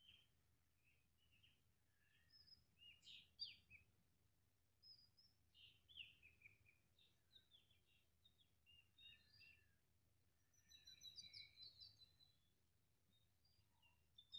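Faint birdsong: scattered short, high chirps and calls, with a rapid trill about eleven seconds in.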